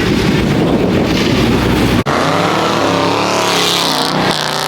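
Loud car engine noise at high revs, which cuts off abruptly about two seconds in. An engine then revs, its pitch rising and falling.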